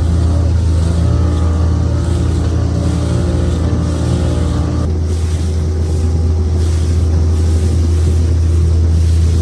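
Motorboat engine running steadily, with wind and water noise. About halfway through, its higher tones drop away.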